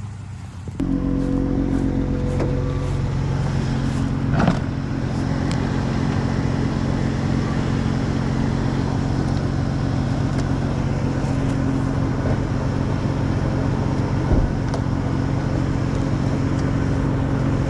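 A vehicle engine running steadily under load during a rope recovery pull. It starts abruptly about a second in, with a sharp knock about four seconds in and another about fourteen seconds in.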